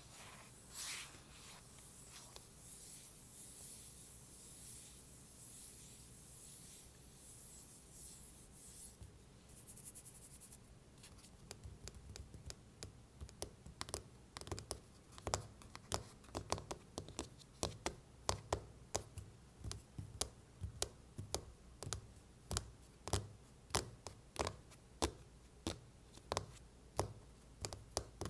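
Fingers scratching and rubbing across an iPhone case for about ten seconds, then tapping on it in a run of sharp taps, roughly two a second.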